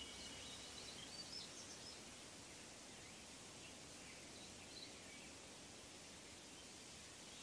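Near silence: faint outdoor background hiss with a few distant bird chirps, mostly in the first two seconds and once more about five seconds in.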